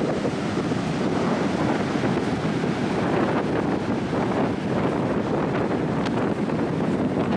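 Strong coastal wind blasting the microphone in a loud, steady rumbling roar, with ocean surf mixed in underneath.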